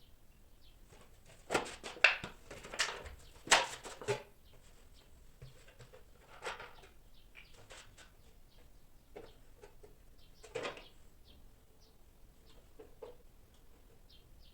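Sharp knocks and clatters of something being handled, bunched in the first few seconds with a couple more later, over faint short high chirps.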